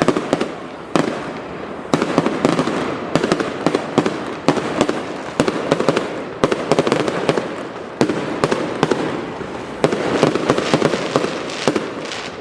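Fireworks going off in quick succession: a dense run of sharp cracks and bangs, with a louder burst about every one to two seconds.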